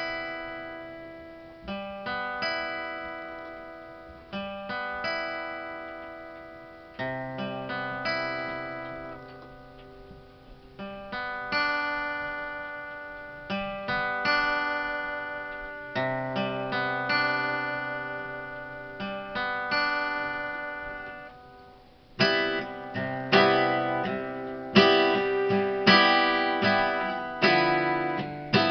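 Solo acoustic guitar playing an instrumental piece, with chords struck and left to ring. A new chord comes every second or two, and the playing grows louder and busier about 22 seconds in.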